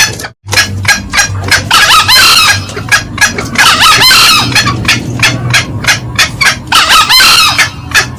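Green junglefowl calls, played loud as a hunting lure: a fast run of sharp clucks, about four or five a second. Three bursts of shrill cackling come about two, four and seven seconds in. The sound cuts out for a moment just after the start.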